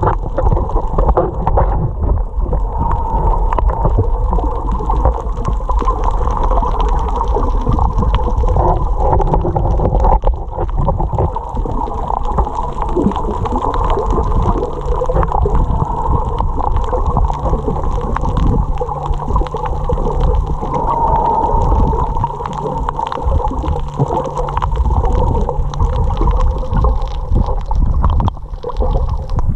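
Water gurgling and sloshing around a camera carried by a swimming snorkeler, heard half in and half out of the water, with many small crackling clicks throughout.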